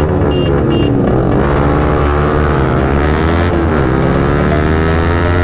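Motorcycle engine under hard acceleration, its pitch climbing and then dipping sharply at each gear change, about three times.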